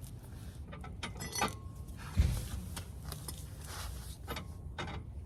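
Work clatter: jangling metallic clinks and a few knocks, with one heavy low thump a little after two seconds in.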